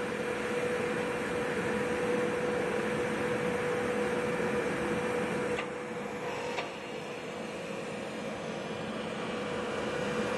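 Trenitalia Pop electric multiple-unit train running past: steady rolling noise with a steady electric hum, and two faint clicks about midway.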